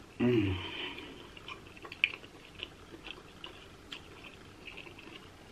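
A person chewing crab meat with close, wet mouth smacks and clicks at an irregular pace. A short, loud, pitched sound comes about a quarter second in.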